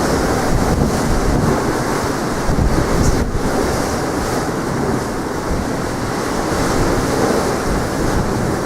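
Strong wind buffeting the microphone over the steady wash of sea waves, with a heavy, uneven low rumble throughout.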